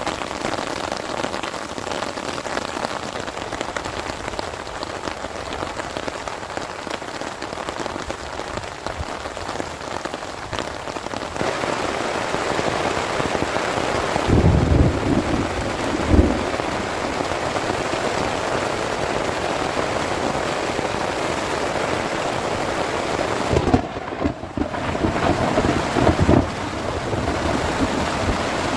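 Heavy rain falling steadily, growing a little heavier partway through. Two short low rumbles of thunder stand out, one about halfway through and one near the end, and these are the loudest moments.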